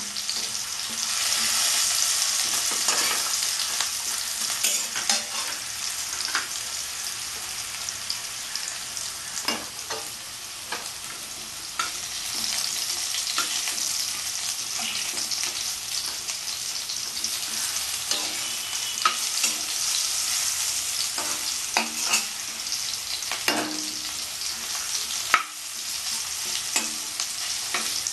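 Potato chunks frying in hot oil in a wok: a steady sizzle, with the scrape and clink of a spatula stirring them now and then, sharpest near the end. The potatoes are being fried until they turn lightly golden.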